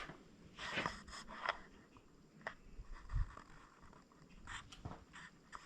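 Scattered footsteps with small scrapes and crunches of debris underfoot on a littered cabin floor, with a soft low thump about three seconds in.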